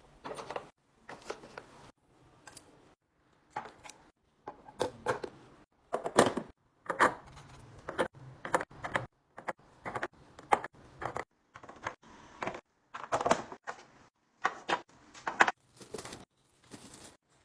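Clicks, taps and clatter of food containers and packaging being handled and set down while a fridge is organized. The sound comes in short irregular bursts broken by brief silent gaps.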